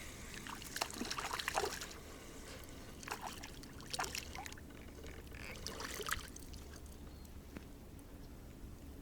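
Water splashing and dribbling in three short bouts of clicks and splashes, the last about six seconds in.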